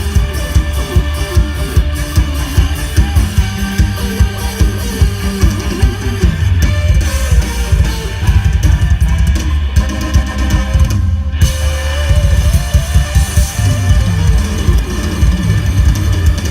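Loud live Isan band music: a driving drum beat with heavy bass and electric guitar. The sound briefly thins out about eleven seconds in.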